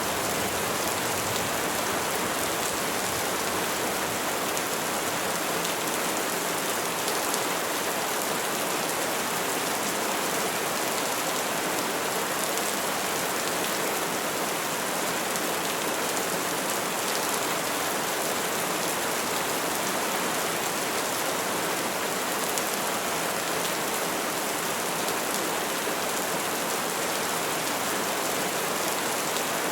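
Steady rainfall pattering on leaves and surfaces, an even hiss with faint scattered drop ticks and no thunder.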